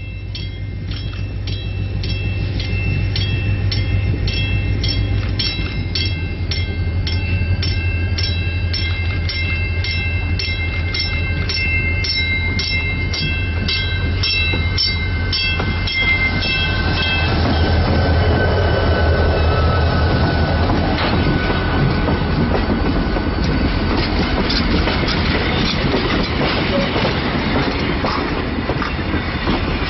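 Diesel locomotive approaching and passing close by with passenger coaches in tow: its engine drone grows as it nears, while a bell rings about twice a second through the first half. Once the locomotive is past, the wheel and rail noise of the coaches rolling by takes over.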